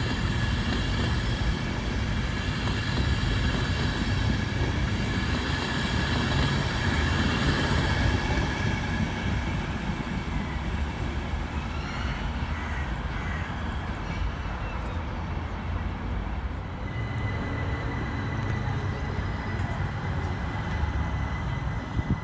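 An InterCity 125 high-speed train passing through the station, its coaches' wheels rumbling and clattering on the rails. The noise fades away after about twelve seconds as the train leaves.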